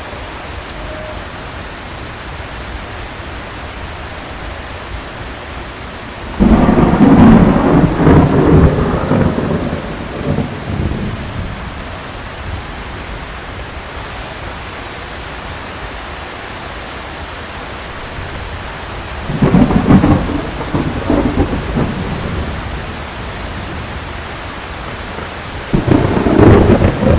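Steady heavy rain, with three claps of thunder that start suddenly and rumble on for a few seconds: about six seconds in, about twenty seconds in, and near the end.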